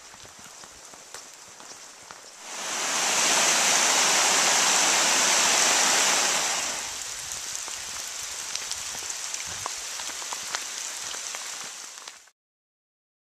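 Rushing water, an even hiss with small scattered ticks. It swells loud for about four seconds, then settles back to a lower steady rush and cuts off suddenly near the end.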